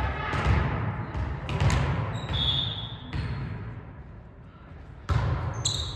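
A volleyball being hit and bouncing on a hard gym floor: several sharp thumps that echo around the hall, with a brief high-pitched tone about two and a half seconds in.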